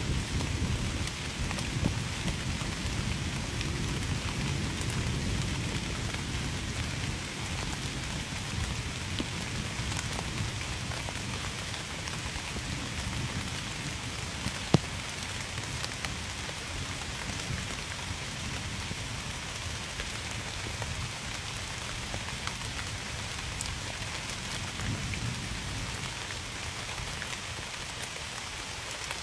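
Steady rain falling, with scattered sharp drop ticks and one louder tick about halfway through. A low rumble of distant thunder underlies the first several seconds and slowly fades.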